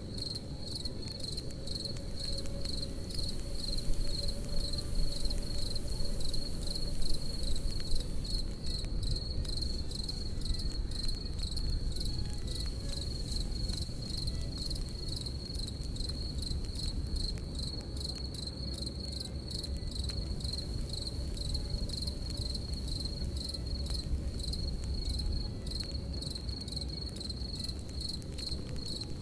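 Crickets chirping in a steady, fast high-pitched pulse, over a crackling campfire with frequent sharp pops and a low rushing sound underneath.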